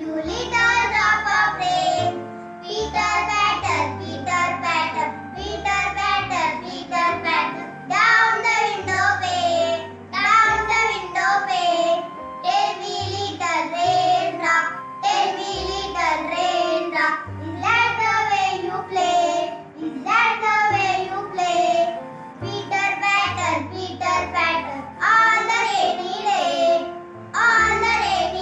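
A child singing a rhyming poem as a song over a backing track with a bass line.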